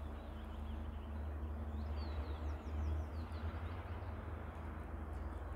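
Small birds chirping, a run of short falling chirps between about two and three and a half seconds in, over a steady low rumble of outdoor background noise.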